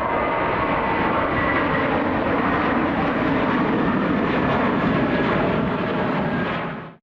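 Airliner engines running loud and steady, a dense roar with a faint whine in it, fading out just before the end.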